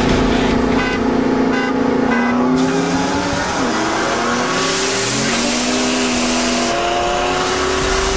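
Modified V8 performance cars accelerating hard side by side, several engine notes climbing in pitch and dropping back at gear changes.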